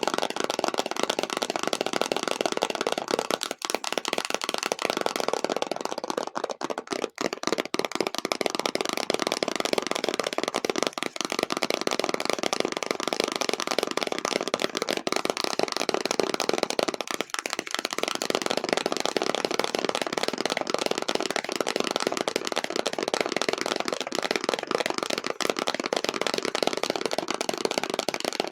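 Extremely fast tapping on an object, a dense unbroken stream of taps that pauses briefly a few times.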